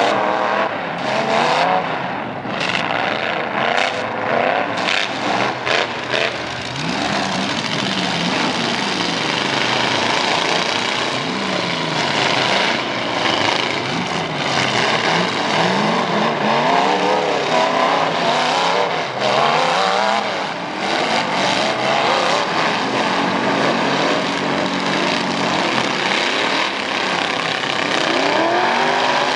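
Racing pickup truck engines revving up and down over and over as the trucks accelerate and ease off, with several engines heard at once. There are sharp crackles in the first few seconds.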